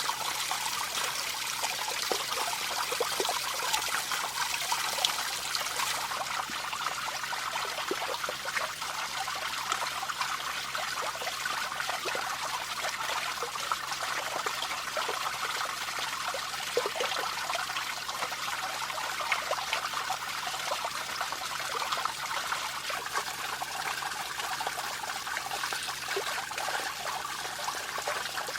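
Water trickling steadily, with small scattered ticks; the hiss thins slightly in the highest range about six seconds in.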